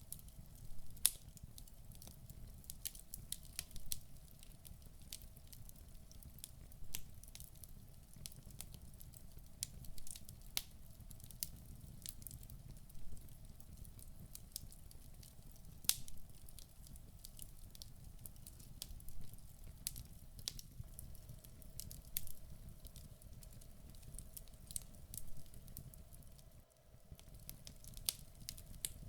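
Wood fire burning in a fireplace: logs crackling with irregular sharp pops and snaps over a low, steady rumble of the flames.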